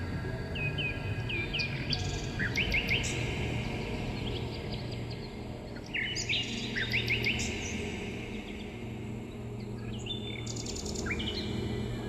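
Small songbirds chirping: short, quick sweeping notes in bursts of several, with a pause between bursts, over a low steady drone.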